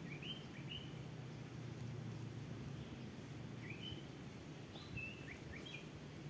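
Small birds chirping in short, high, rising notes, twice near the start and then a quick run of about six more in the second half, over a steady low background hum.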